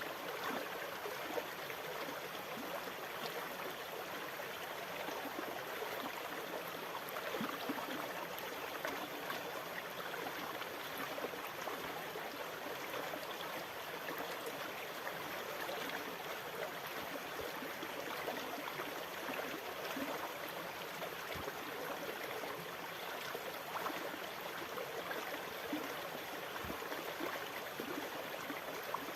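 Continuous moving water, a steady, even trickling and lapping sound with no swelling surges.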